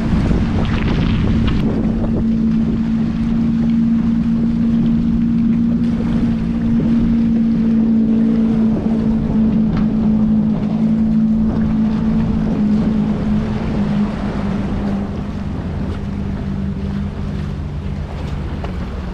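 A motorboat's outboard engine running at a steady pitch close by, over wind buffeting the microphone and choppy water. The engine eases down about three-quarters of the way through.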